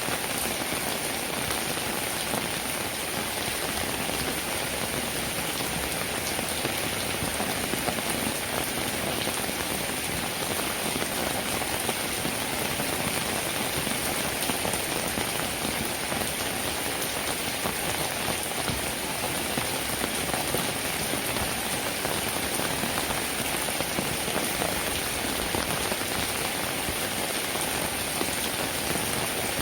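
Steady rain falling, an even, unbroken hiss of many drops with faint individual drop ticks scattered through it.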